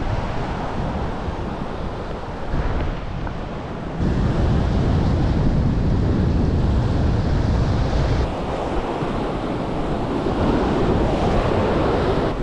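Strong wind buffeting the microphone, with surf breaking on the shore. The wind gusts harder from about four seconds in until about eight.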